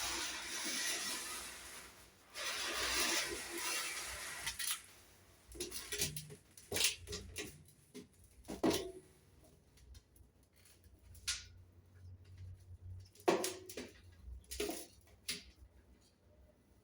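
Thin sheet metal being handled and worked by hand: a couple of seconds of rubbing and sliding, then scattered light knocks and clinks.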